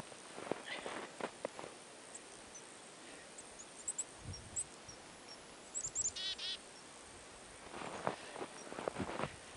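Small birds giving high, thin chirps, with a quick run of descending notes about six seconds in. Crunching steps on snow sound in the first second or so and again near the end.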